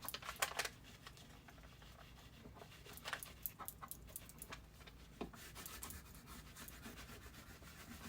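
Quiet room noise with scattered faint clicks and rustles.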